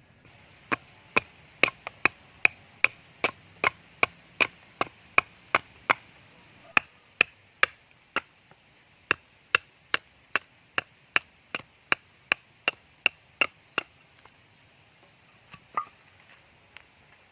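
Steady chopping with a blade into wood: a long run of sharp, evenly paced chops, about two or three a second, that stops after about fourteen seconds, followed by a few lighter knocks near the end.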